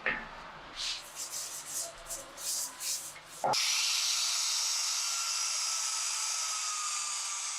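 A quick run of short hand rubbing or sanding strokes, then an abrupt switch about three and a half seconds in to a small high-speed power tool running with a steady high whine whose pitch sinks slightly.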